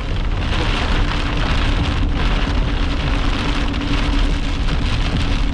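Heavy rain hitting a vehicle, a dense, steady noise, with a constant low hum underneath.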